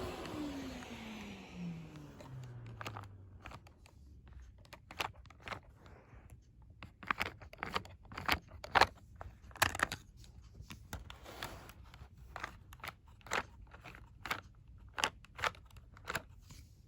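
Inline two-cylinder vacuum engine winding down: its running note falls steadily in pitch and fades over about three seconds. Then come scattered, irregular light clicks and knocks.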